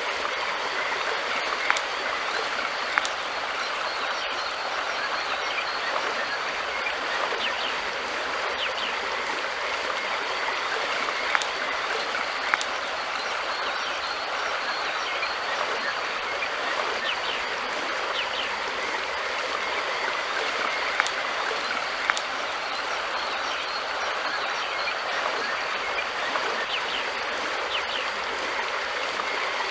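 River water flowing in a steady rush, with scattered brief ticks and splashes.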